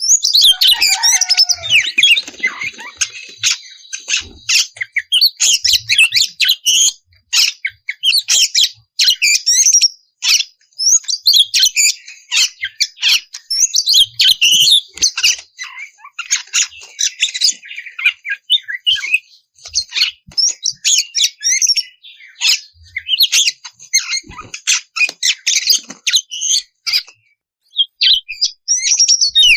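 Oriental magpie-robin (kacer) singing a fast, varied, continuous song of chirps and whistles with only brief pauses, played as a lure recording to make other kacer sing.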